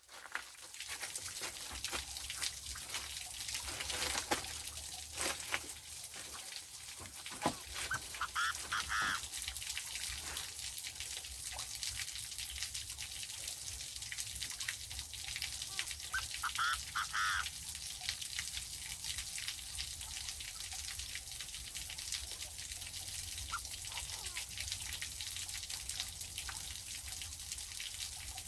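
Forest ambience: irregular crackling and ticking over a steady high hiss, with a short bird call about eight seconds in, again at about seventeen seconds, and once more at the end.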